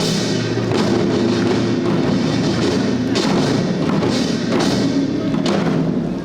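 Korean traditional music for the Jindo drum dance: barrel drums (buk) strike about every three-quarters of a second over steadily held melody tones.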